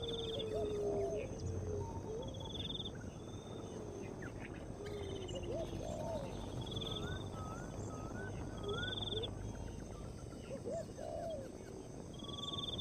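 Several birds calling. A short, high trilled call repeats every two to three seconds over lower gliding notes and a run of wavy whistled notes, with a steady background of insects.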